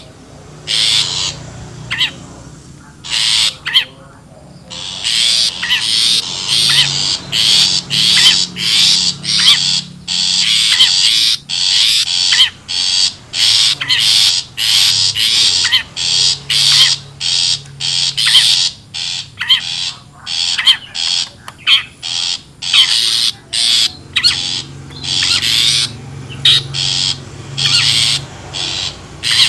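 Shrikes (cendet/pentet) giving harsh, scratchy calls in fast runs of short notes, several a second, with brief pauses early on. This is the wild lure call used to draw shrikes in.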